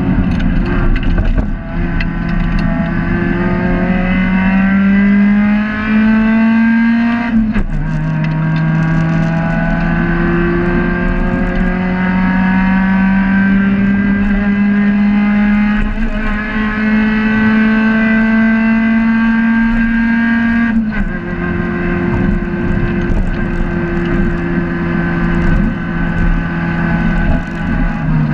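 Race car engine heard from inside the cabin, pulling hard with rising revs. Revs fall sharply at a gear change about seven seconds in, climb slowly again, and fall at another change about twenty-one seconds in, then hold nearly steady.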